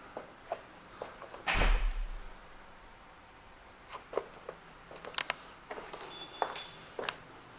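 A dull thump about a second and a half in, then scattered light clicks and taps.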